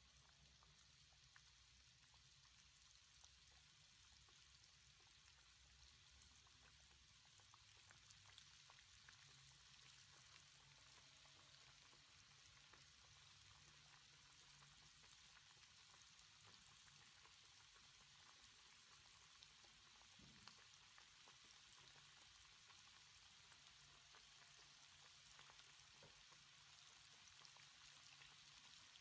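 Faint, steady sizzle and fine crackling of flour-dredged chicken wings deep-frying in hot oil, growing a little louder as it goes.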